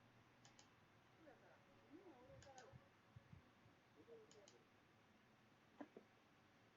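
Near silence with faint paired clicks about every two seconds and a faint murmur of distant voices.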